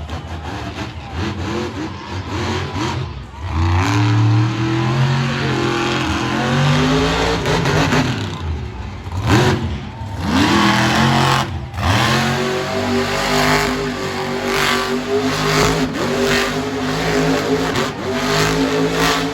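Monster truck engines revving hard at full volume, the pitch climbing and dropping again and again as the throttle is worked, with a few sudden breaks in the sound.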